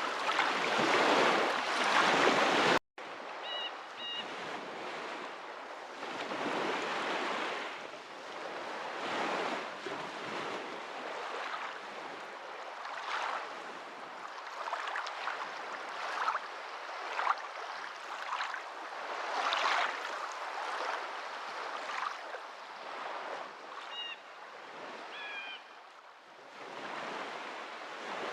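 Water washing in repeated swells that rise and fall every few seconds, like surf on a shore, broken by a brief cut to silence about three seconds in. A few short high chirps come through twice.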